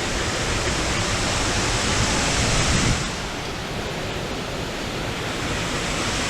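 Waterfall rushing with a steady roar, a little louder for a second or so before easing back about three seconds in.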